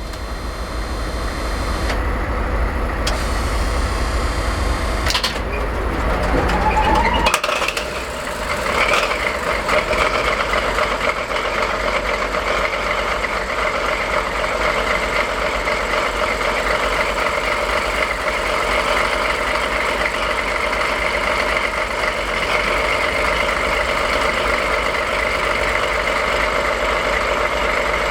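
DE10 diesel locomotive's V12 diesel engine starting. A whine rises in pitch over a low rumble until about seven seconds in, when the rumble cuts off and the engine catches. It then settles into a steady idle.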